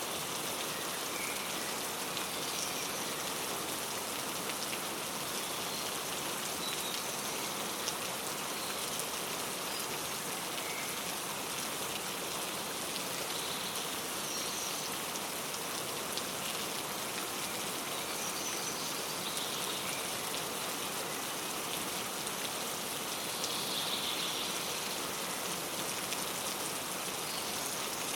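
Steady rain falling, a constant even patter, with scattered short bird chirps heard faintly over it now and then, the clearest about 24 seconds in.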